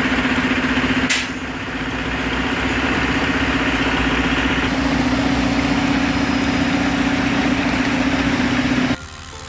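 A heavy machine's engine running steadily with a constant drone and a sharp click about a second in. The sound cuts off abruptly near the end.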